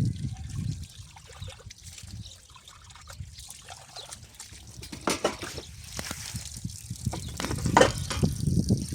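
Water trickling and splashing, with a series of short knocks and clatters in the second half.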